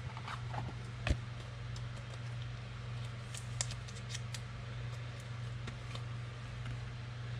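Trading cards being handled: light clicks and slides of card stock, with one sharper tap about a second in, over a steady low electrical hum.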